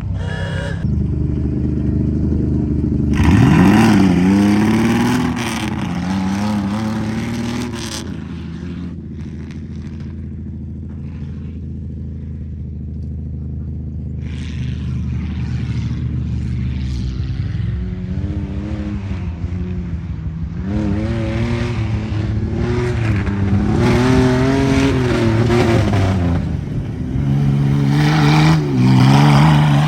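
Truck engine revving hard in a tuff-truck run. It climbs sharply about three seconds in, eases off in the middle, then surges up and down several times near the end, with rattling noise over it.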